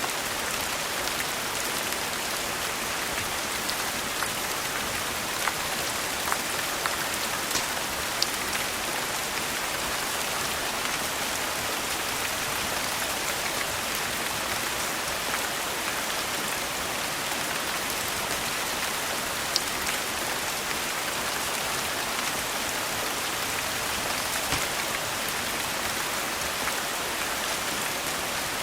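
Steady rain falling, an even hiss of drops, with a few faint sharp ticks and pops scattered through it.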